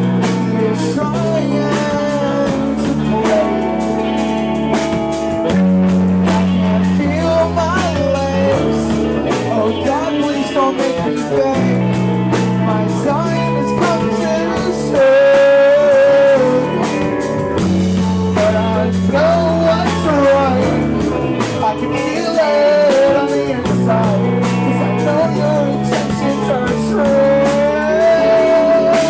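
Loud live rock band playing: drums keep a steady beat under electric guitar and a stepping bass line, with a wavering melody on top.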